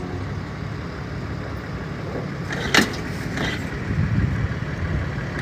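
Street traffic: a steady low rumble of motor vehicles. There is one sharp click about halfway through, and a fainter one just after.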